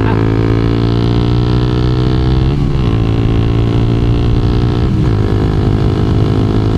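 2012 Honda CBR250R's single-cylinder engine pulling under acceleration, its pitch climbing steadily and dropping twice, about two and a half seconds apart, as it is shifted up a gear each time.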